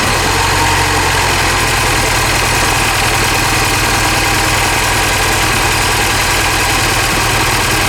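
Mini Cooper Clubman S's turbocharged 1.6-litre four-cylinder idling steadily while misfiring. The misfire, on cylinder 1, persists after the spark plug and ignition coil have been swapped.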